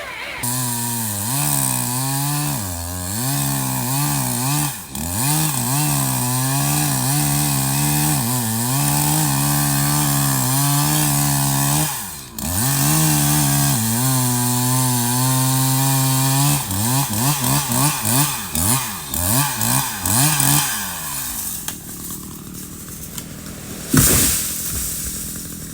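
Two-stroke chainsaw cutting wood, its engine pitch dipping as the chain loads up in the cut and climbing back, with a brief break about twelve seconds in. It then revs in short blips before falling away, and a single sharp knock comes near the end.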